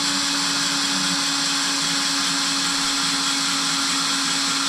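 Electric drill running steadily at constant speed, pre-drilling a hole in a metal fence pole for a self-tapping screw.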